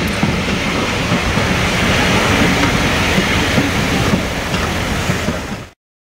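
Steam train running along the track, a steady noise of wheels on rails. It fades and then cuts off to silence about five and a half seconds in.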